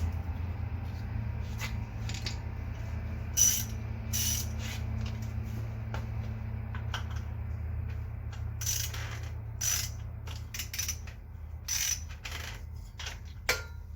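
Socket wrench ratchet clicking in irregular short runs as a nut is worked, over a steady low hum.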